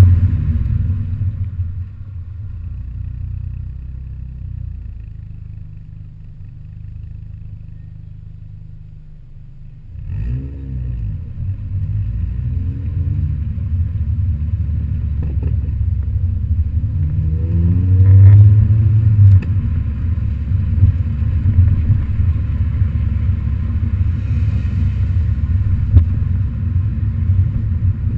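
Modified MINI Cooper Works GP's exhaust: the engine note fades away over the first few seconds, then comes back suddenly about a third of the way in, with the revs rising and falling several times. It is loudest about two thirds of the way through, then runs on steadily.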